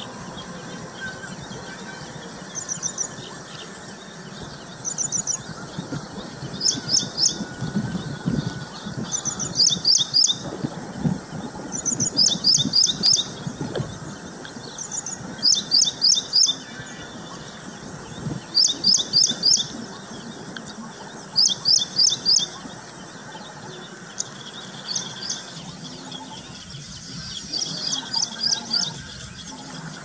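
Small songbird chirping in short quick groups of three to five high notes, a group every couple of seconds, over a steady low outdoor background.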